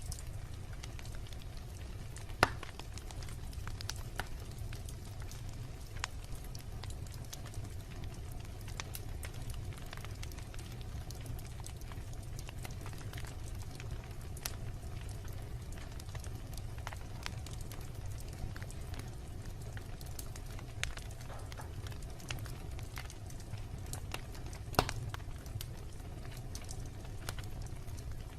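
Wood bonfire crackling: scattered small snaps and pops over a steady low rumble, with a couple of louder pops, one just after two seconds in and one near the end.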